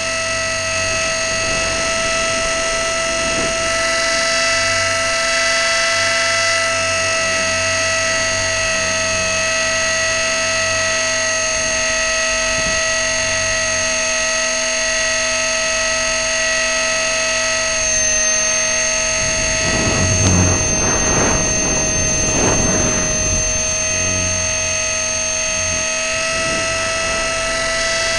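E-flite Blade 400 electric RC helicopter's motor and drive gears whining steadily at one high pitch, close up through its onboard camera. The pitch dips slightly about eighteen seconds in and comes back up near the end, with a rush of noise about twenty seconds in.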